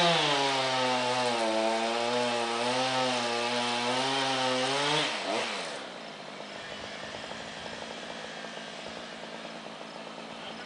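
Two-stroke chainsaw running at high revs, its pitch wavering as it cuts into a big tree. About halfway through the throttle is let off and the engine note falls away to a much quieter, steady run.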